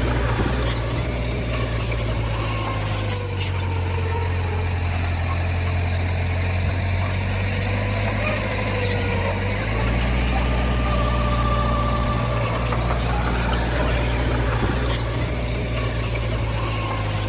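Heavy diesel earthmoving machinery running steadily. Its low engine hum shifts pitch a few times as the load changes, with a wavering whine above it and a few scattered clanks.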